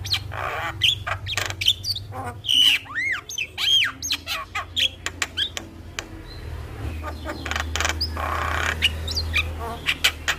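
Javan myna (jalak kebo) calling in a busy jumble of rising and falling whistles, sharp clicks and harsh rasping squawks, with a quick run of clicks near the end, over a steady low hum.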